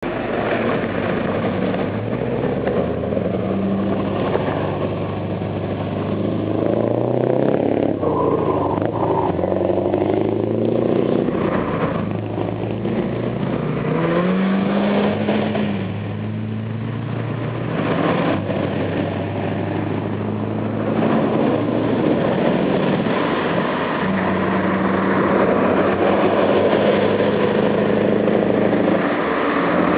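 Scania 164-580 V8 diesel truck engine running through a straight open exhaust pipe, its pitch rising and dropping back several times between steady stretches, getting a little louder near the end.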